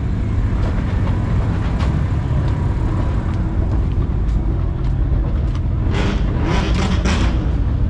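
Car engine running loud and rough on a two-step launch-control rev limiter, with sharp cracks every second or so and a quick cluster of loud pops and bangs about six to seven seconds in.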